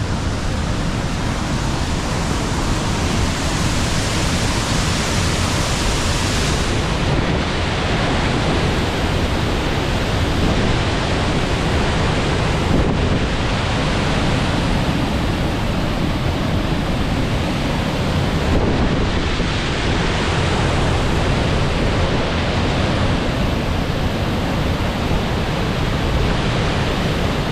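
Sol Duc Falls, a waterfall at full strength from off-season rain, rushing with a loud, steady roar of falling water. Its tone shifts slightly a few times.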